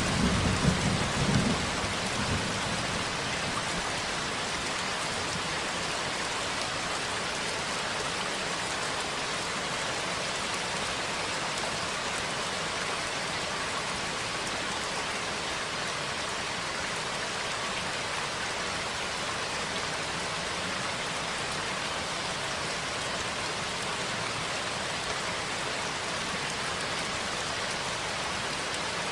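Steady, heavy rain falling, with the tail of a thunder rumble dying away in the first couple of seconds.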